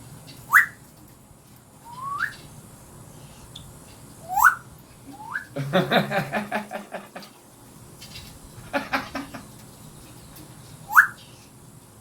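Pet parrot whistling: five short, sharply rising whistle notes spread over several seconds, with two brief stretches of rapid pulsed chatter around the middle.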